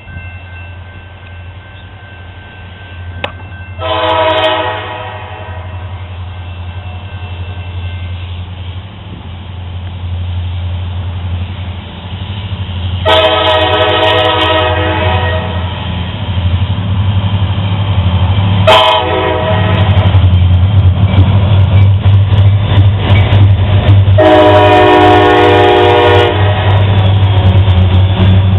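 Approaching diesel freight locomotive sounding its multi-chime air horn in four blasts (a shorter one about four seconds in, then long, short, long), the pattern of a grade-crossing warning, over a steady engine rumble that grows louder as the train nears.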